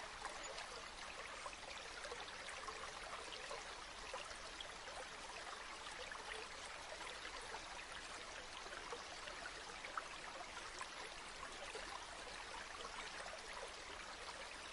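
A river flowing: a steady wash of running water with small splashes and trickles.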